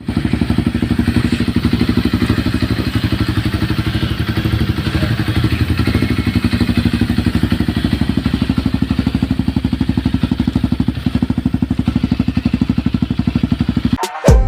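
Honda CRF250L single-cylinder four-stroke engine idling through an aftermarket full-system exhaust, a rapid even beat at steady speed. It cuts off sharply near the end.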